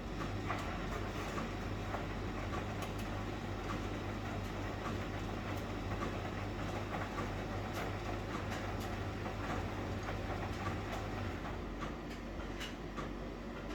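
1971 Constructa Garant 491 washing machine running a wash cycle: a steady mechanical rumble with scattered light clicks and a low motor hum that stops about eleven seconds in, as the drum pauses in its wash rhythm.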